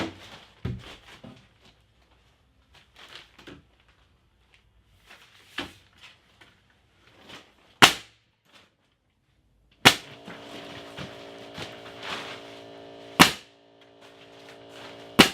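Pneumatic nail gun firing single shots into framing lumber: a handful of sharp cracks a couple of seconds apart, the loudest three about midway and later, with lighter knocks in between. From about two-thirds of the way in, a steady hum runs under the shots.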